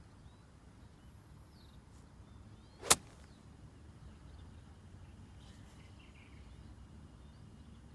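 A golf club strikes a ball once, a single sharp crack about three seconds in, over faint outdoor background with a few bird chirps.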